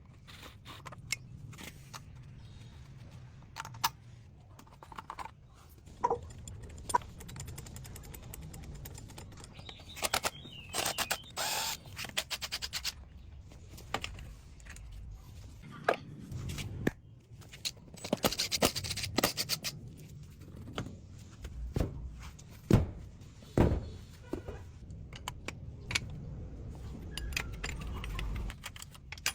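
Metal parts being handled during bike restoration work: scattered clinks, knocks and short scrapes over a low steady hum, with the sharpest knocks about three-quarters of the way through.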